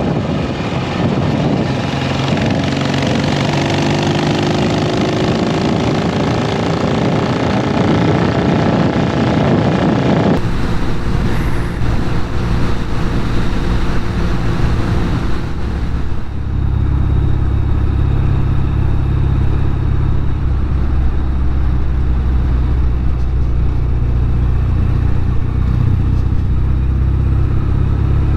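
Norton Commando 850 Mk2 air-cooled parallel-twin engine under way, its note rising as the bike accelerates against a rush of wind. The sound changes abruptly about ten seconds in, and from about sixteen seconds in the engine runs with a steady, deep low note.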